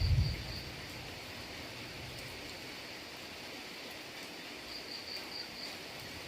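Steady rain hiss, with a low rumble of thunder dying away in the first half second. Insects trill in short pulses near the end.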